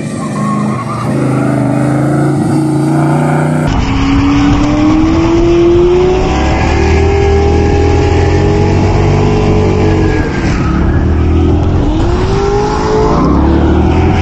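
Engine revving up and down several times, its pitch rising and falling, with an abrupt change in the sound about four seconds in.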